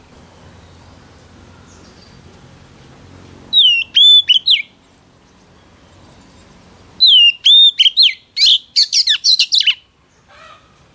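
Oriental magpie-robin singing two phrases of clear whistled notes with quick rising and falling slurs. The first phrase, about three and a half seconds in, is short. The second starts about three seconds later, runs longer, and ends in a rapid run of sharp, high, downward-sweeping notes.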